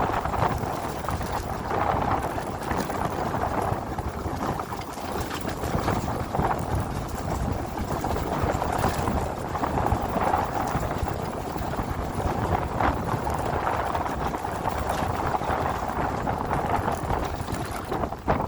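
Dirt bike engine running as the bike is ridden, a steady rough noise with scattered knocks and rattles.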